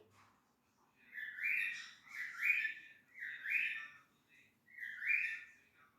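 Cockatiel chirping: four short rising calls, the first three about a second apart and the last after a longer pause.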